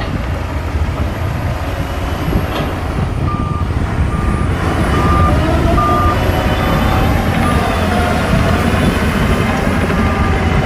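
Heavy earthmoving machinery running with a steady low rumble, as a bulldozer works soil beside a dump truck. About three seconds in, a reversing alarm starts beeping at a steady pace, roughly one beep a second.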